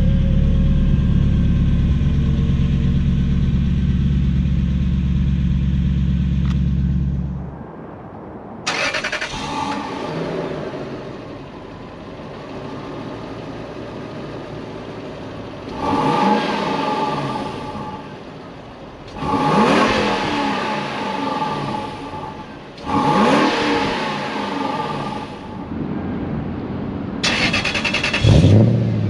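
Lexus LS400's 1UZ-FE V8 through a custom exhaust with two 2.5-inch Vibrant mufflers and no X or H pipe, revved five times in short blips that rise in pitch and fall back to idle between them. A steady low drone comes before the first rev.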